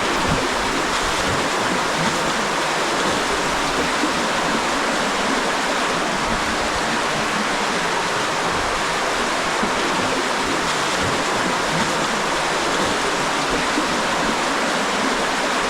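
Spring water rushing through a cave passage: a steady, even roar of running water, with the spring running high after heavy rain.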